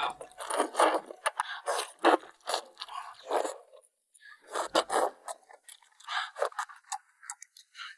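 Close-up eating sounds: biting and chewing a sauce-coated piece of food, in short irregular bursts with a brief pause about four seconds in.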